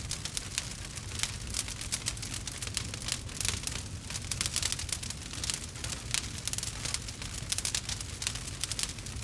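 Wood fire in a fireplace crackling: dense, irregular pops and snaps from the burning logs over a low steady rumble of the flames.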